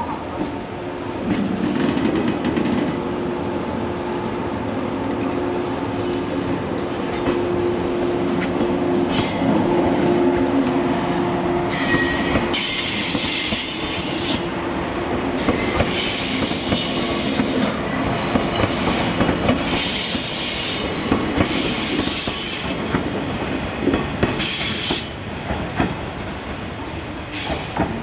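A JR East 189 series electric train pulling out and drawing nearer. First comes a steady low hum, then from about halfway there are repeated high squealing bursts from the wheels on the curved track, with the rail noise getting louder as it comes close.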